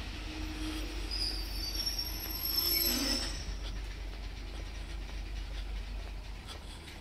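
Train running with its wheels squealing on the rails: a high-pitched squeal from about one second in, loudest around three seconds, then fading, over a steady low rumble.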